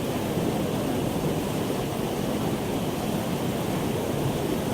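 Rushing water of a clear, ice-cold mountain stream, a steady unbroken wash of sound.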